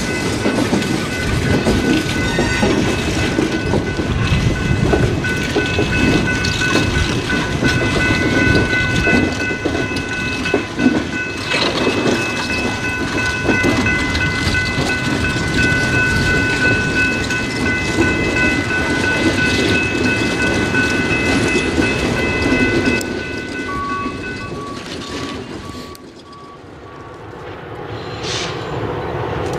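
Passenger train with an FL9 locomotive rolling slowly past: wheel rumble and clatter over the rail joints, with a steady high-pitched squeal of several pitches held through most of the pass. About 24 seconds in the sound drops away to quieter yard noise.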